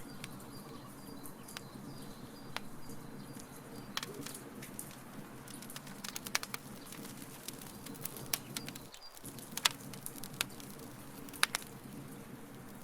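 Wood fire crackling: irregular sharp pops and snaps over a steady low rumble, with the loudest snaps about two thirds of the way in.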